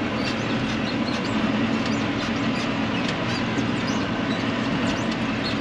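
Farm tractor running steadily under a light load, with a constant engine hum and frequent small clicks and rattles from the machine.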